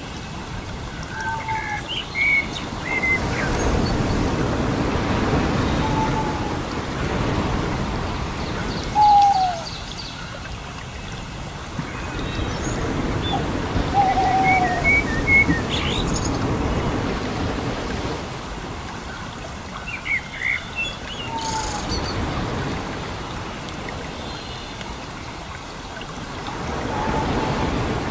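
Birds chirping in short, scattered calls, some falling in pitch, over a steady hiss that swells and fades every few seconds.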